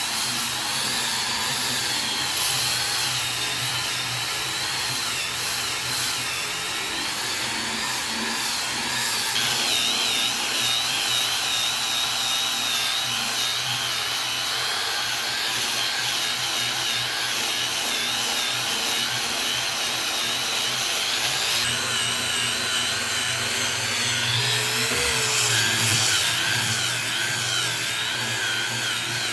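A power tool running without a break as it works wood, with a high whine that wavers slightly.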